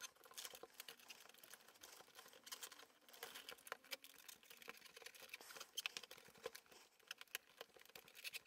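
Near silence with faint, scattered soft clicks and rubbing as fingers press and smooth modelling clay flat inside a frame of plastic toy building bricks.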